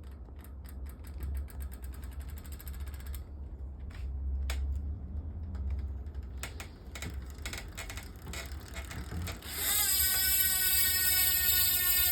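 Fast mechanical clicking like a ratchet being wound, then scattered single clicks. About two-thirds of the way in, a loud steady pitched tone with many overtones starts and holds, over a low rumble.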